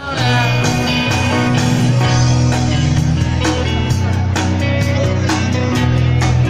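A band playing music: guitar over a steady beat of about two strikes a second, with held bass notes.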